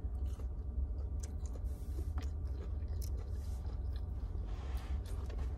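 Close-up chewing of a mouthful of breaded fried chicken nugget, with a few small crunches and mouth clicks, over a steady low hum.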